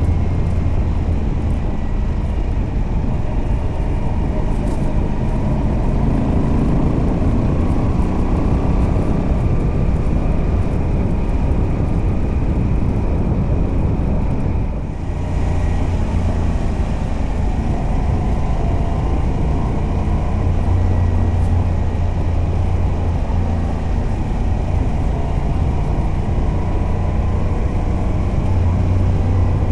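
Moto Guzzi V85TT's transverse air-cooled V-twin running on the road, fitted with the stock exhaust and a decat pipe, its note rising and falling with the throttle. There is a brief dip in the sound about halfway through.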